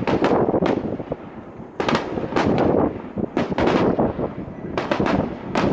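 Aerial firework shells bursting in quick succession: a run of sharp bangs over a low rumble, which thins out briefly about a second in before the bangs pick up again.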